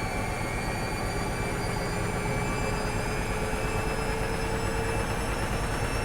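A steady mechanical whir with several tones that slowly rise in pitch; no metronome clicks stand out.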